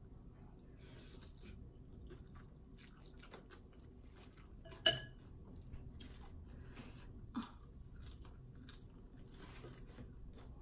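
A person chewing a mouthful of khao poon, Lao rice noodle soup, with small wet mouth clicks. About five seconds in, a sharp ringing clink of a utensil against the dish, and a softer knock a couple of seconds later.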